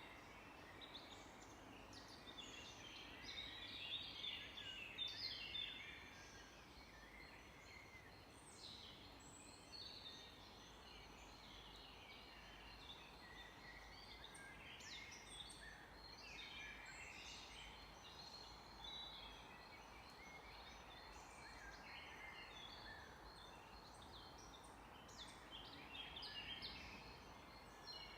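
Several songbirds singing, with many short chirps and trills overlapping over a faint steady background hiss. The calls are busiest a few seconds in and again near the end.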